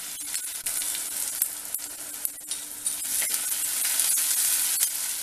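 Chopped onions, green chillies and curry leaves sizzling in gingelly oil in a clay pot, stirred with a wooden spatula that scrapes and clicks against the pot. The sizzle and stirring get louder about three seconds in as the stirring speeds up.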